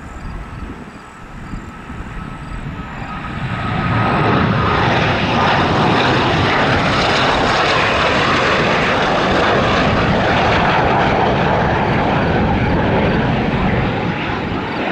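T-38 Talon jet trainer's twin turbojets roaring as it passes close by. The roar builds over the first few seconds, holds loud and steady, then eases slightly near the end.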